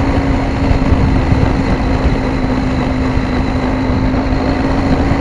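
KTM 790 Adventure's parallel-twin engine running at steady revs under way, holding one steady note that creeps slightly higher near the end, over a continuous low rumble.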